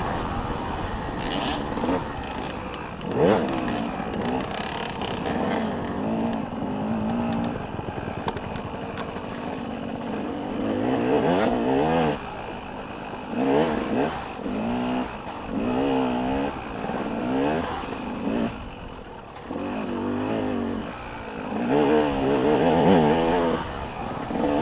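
Motocross bike engines revving hard and shifting as the bikes ride the track. The engine pitch climbs and drops over and over, with several louder passes, the loudest near the end.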